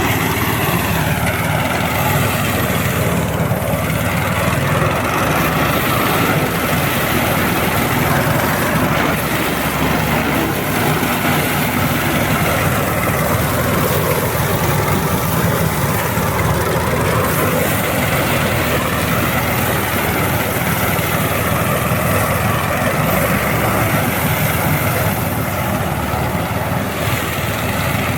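Rice harvesting machine's engine running steadily and loud, its pitch drifting slowly up and down.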